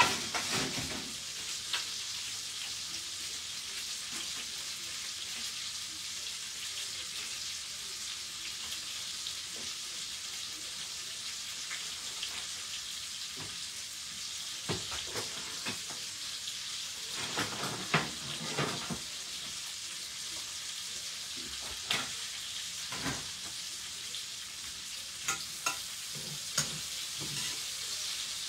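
Chicken, onions and carrots sizzling steadily in a stainless steel frying pan on a stovetop, with scattered sharp pops and knocks, a cluster of them in the middle and several more near the end.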